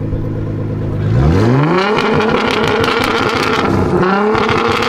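Nissan GT-R R35's twin-turbo V6, tuned to 800 hp with a Boost Logic exhaust, idling and then revved up hard about a second in and held high, then revved a second time near the end. Sharp crackles and pops from the exhaust run through the revs.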